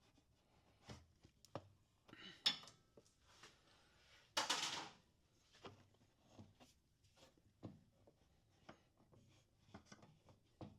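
Faint scattered clicks and knocks of hands and tools working on the intake ducting, with a short scraping rush about four seconds in.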